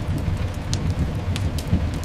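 Layered rain-and-fireplace ambience: steady rain over a deep continuous rumble of thunder and train movement, with a few sharp crackling pops from a log fire.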